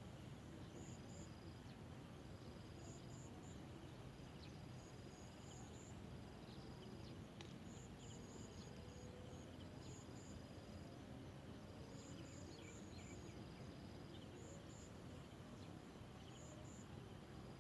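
Faint insect chirping over a steady low hiss: short groups of high chirps repeating every second or two, with brief thin high trills between them.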